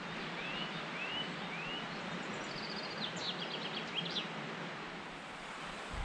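Songbirds singing in spring woodland: three short arched chirps, then a quick high trill and a run of fast descending notes, over a steady rushing background noise.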